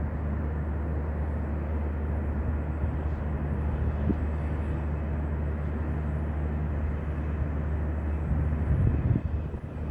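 A steady low rumble, with a louder, uneven stretch of rumbling near the end.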